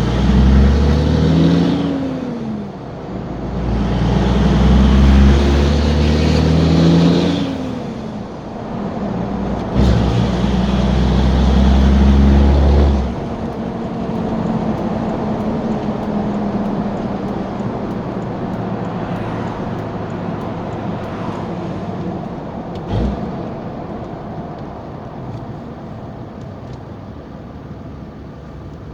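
Straight-piped 2003 Cummins 5.9-litre inline-six turbo-diesel pulling hard in about three bursts, its pitch climbing each time and dropping between them as the six-speed manual is shifted. From about 13 s in it settles into a steadier, quieter drone, with a single short knock a little before the end.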